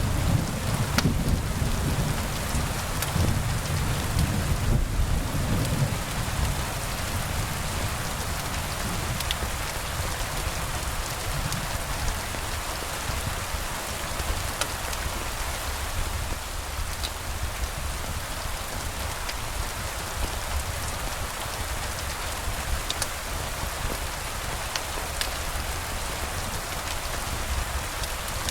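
Steady rain falling, with a low rumble of thunder that dies away over the first few seconds. Now and then there is a sharp tick.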